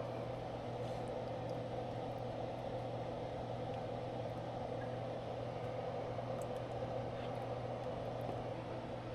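A steady mechanical hum, a fan or motor running evenly with a low drone underneath and a few faint ticks.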